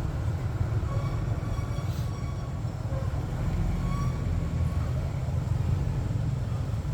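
Steady low rumble with no let-up, with a few faint short chirp-like tones here and there above it.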